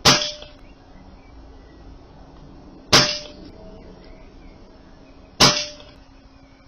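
Three shots from a Brocock Concept PCP air rifle fired in steady succession, about two and a half to three seconds apart. Each is a sharp crack that dies away quickly, followed by a brief ringing tone.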